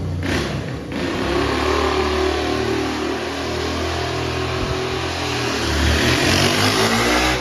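An engine running loud and revving, its pitch rising toward the end before it cuts off suddenly.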